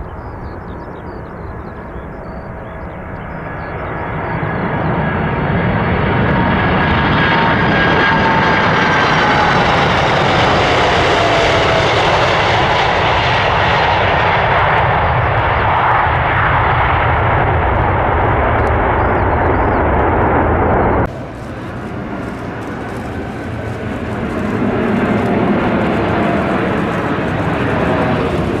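Jet airliner passing close by: the engine noise swells over the first few seconds, with a whine that slides down in pitch as the aircraft goes by. About two-thirds of the way in it cuts off abruptly and a quieter aircraft engine noise takes over and builds again.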